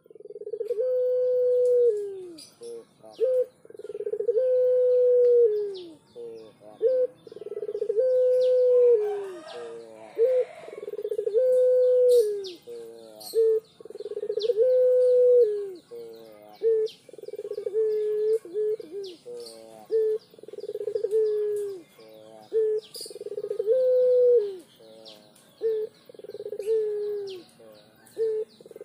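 A dove cooing over and over, each coo a few quick notes and then a long held note that drops at its end, about every two seconds. Faint chirps of small birds sound behind it.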